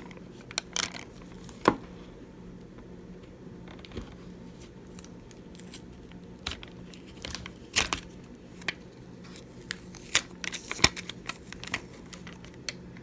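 Small hand tools and phone parts clicking and tapping while an iPhone 7 Plus screen is pried open, with a sharp click a little under two seconds in and clusters of clicks around eight and eleven seconds in, over a faint steady hum.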